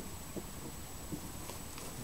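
A few faint clicks and knocks as the bolt of a CZ 527 bolt-action rifle is pushed forward and closed, chambering a round, with some light handling noise.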